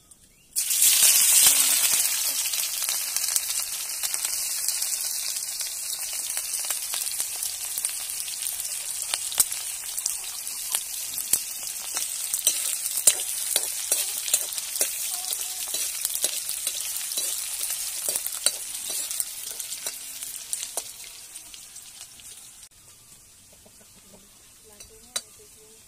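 Chopped onions dropped into hot oil in a metal kadhai, sizzling loudly at once and then frying with a steady hiss, with scattered clicks of the ladle stirring in the pan. The sizzle slowly dies down and is much quieter near the end.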